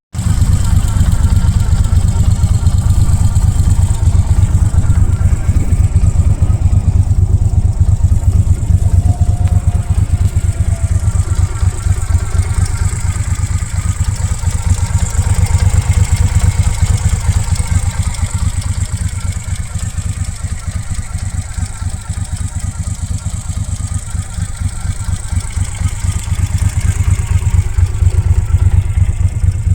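Moto Guzzi California Classic's air-cooled transverse V-twin engine running with a fast, steady low beat, easing off for a while in the middle and picking up again near the end.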